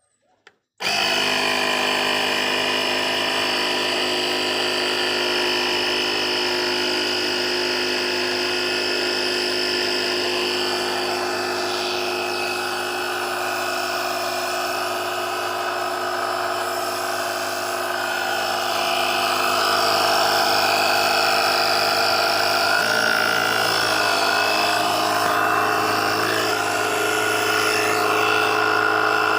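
Portable 12-volt air compressor switched on about a second in and running with a loud, steady buzzing drone. Its tone shifts slightly about two-thirds of the way through, and it cuts off at the end.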